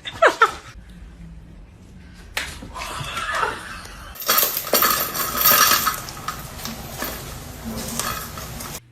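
Hard objects clattering and clinking together, like dishes or utensils being knocked about, for several seconds before cutting off suddenly. A short falling cry comes right at the start.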